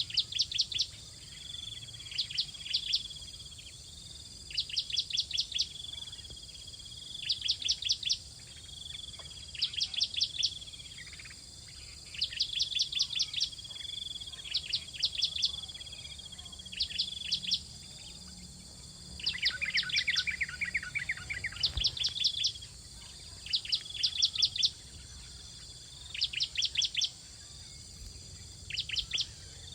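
Bar-winged prinia (ciblek) calling: short bursts of four to seven rapid, sharp, high notes, repeated about every two seconds, with a lower, faster run of notes about twenty seconds in. A steady high hiss of insects runs underneath.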